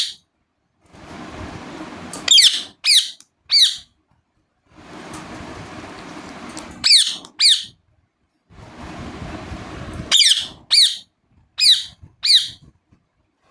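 Ringneck parakeet giving short, shrill chirps in quick runs of two to four, each call dropping in pitch. A steady rushing background noise fills the gaps between runs and cuts in and out abruptly.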